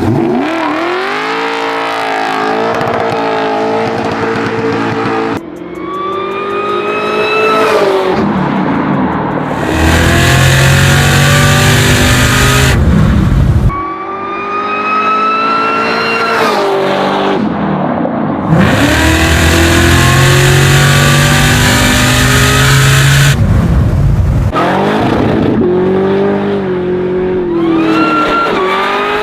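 American V8 muscle car engines revving hard and accelerating, the pitch climbing again and again as the revs rise, with tyres screeching under wheelspin. The sound changes abruptly several times.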